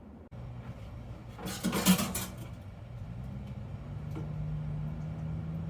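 Dishes being washed at a small sink: a brief loud burst of noise about two seconds in, then a steady low hum that carries on to the end.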